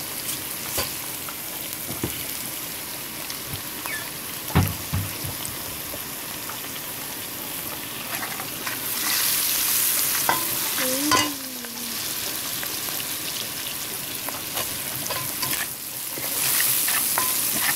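Onions, garlic and spices frying in hot oil in a metal pot, sizzling steadily while a spoon stirs and scrapes through them, knocking against the pan now and then. The sizzle swells louder about halfway through and again near the end.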